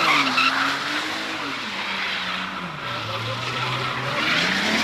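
A car drifting: its engine revs rise and fall, settling to a lower steady note in the middle and climbing again near the end, with tires squealing and skidding at the start and again near the end.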